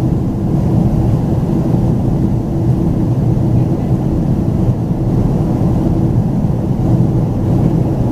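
Steady cabin noise of a Boeing 767-400ER in flight: its General Electric CF6-80C2 turbofans and the airflow make a loud, even rumble with a steady hum running through it.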